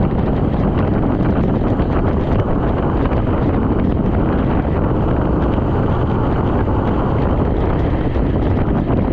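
Steady wind buffeting the microphone of a bicycle rider's camera on a fast road descent, a dense noise with faint ticks mixed in.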